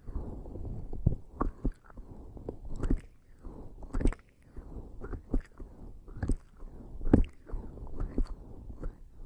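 Bare skin slick with lubricating jelly rubbing and pressing on a microphone's ears, close up. It makes irregular wet, sticky smacks every second or so over a continuous low rubbing.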